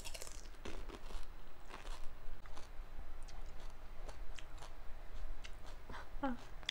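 A whole panipuri, its crisp puri shell filled with spicy water, bitten into and chewed, with crunching and wet mouth sounds. There is a burst of crunching right at the start, then repeated crunches, and a brief voiced sound from the eater shortly after 6 s.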